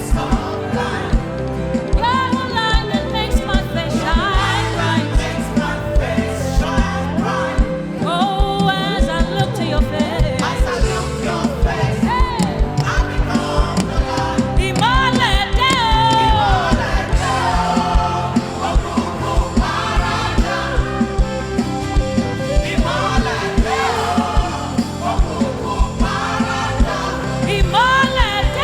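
Upbeat gospel praise music from a live church band with a steady, driving beat of drums, and voices singing over it.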